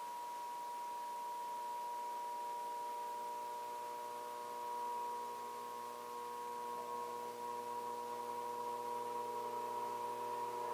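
Steady electronic tone, a strong one near 1 kHz with several fainter lower tones beneath it, holding without a break; the lower tones become a little stronger about two-thirds of the way through.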